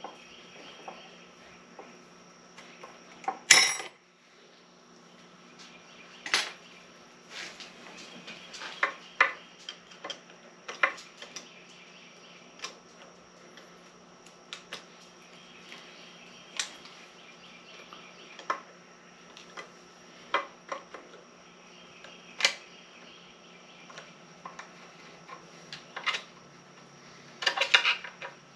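Scattered sharp metallic clicks and clinks of snap ring pliers and tools working a snap ring off a main shaft bearing of an SM465 transmission. There is one loud snap about three and a half seconds in and a quick run of clicks near the end.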